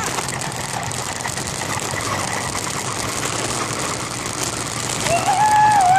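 The small engine of a motorized bicycle running steadily under the rider. Near the end, a wavering high tone rises and falls over it for about two seconds.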